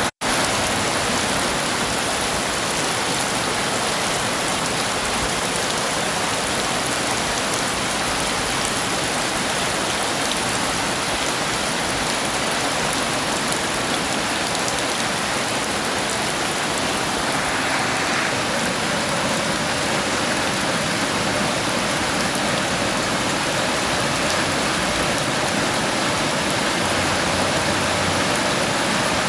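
Heavy rain falling steadily, an even hiss of drops on surfaces. The sound cuts out for an instant just after the start.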